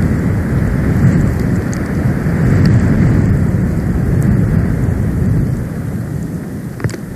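Storm wind buffeting an outdoor nest-cam microphone in a snowstorm: a loud, steady low rumble that eases a little near the end, with a few faint ticks.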